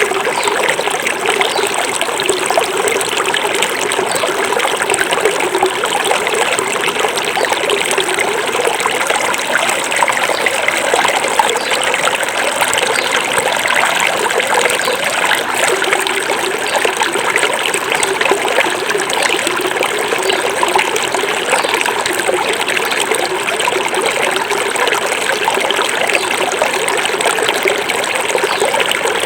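Small forest river flowing and babbling over stones, a steady rush of water.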